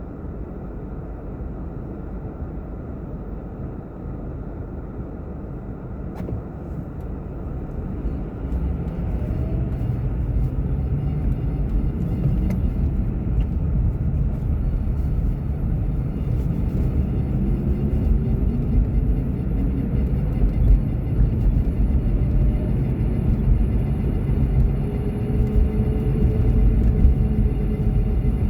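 Car driving, heard from inside the cabin: a steady low rumble of road and engine noise that grows louder about a third of the way in, with a faint engine note rising in pitch near the end.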